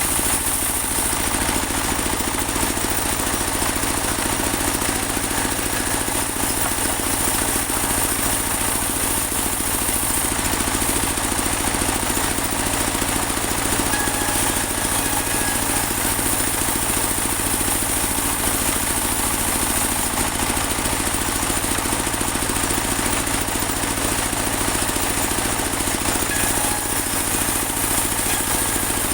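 Engine of a portable bandsaw sawmill running steadily at a constant level, with a steady high-pitched whine above it.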